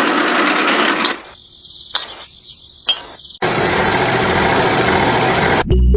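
A small DC motor running with a steady whir, cutting off about a second in, two sharp clicks during a short pause, then running again until it stops abruptly near the end.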